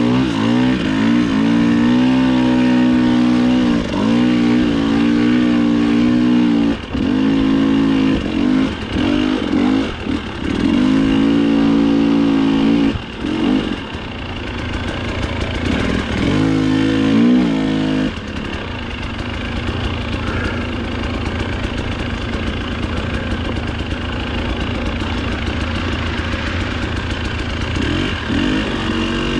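Dirt bike engine revving up and down hard in repeated surges, with short drops between them as the throttle is chopped. About two-thirds of the way through it falls to a lower, steadier run, close to an idle.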